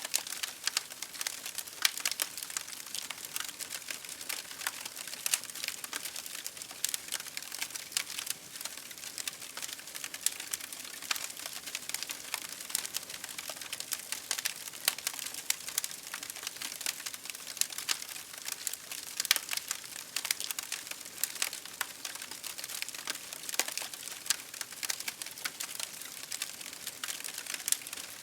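Campfire crackling: a steady run of irregular sharp pops and snaps from burning wood over a soft hiss.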